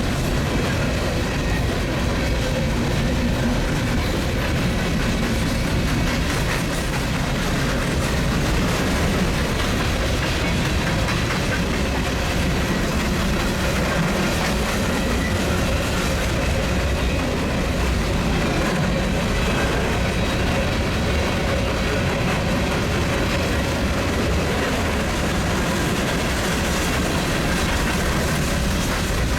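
Empty coal train's cars rolling past with steady wheel-on-rail noise and clicking over the rail joints.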